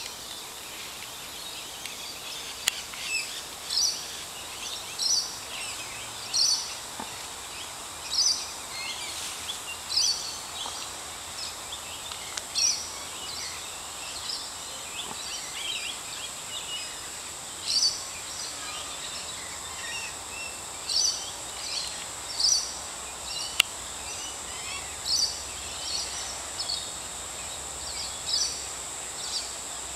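Birds calling in the treetops: short high chirping calls repeated every second or two, with a few seconds' pause midway, over a steady high-pitched whine.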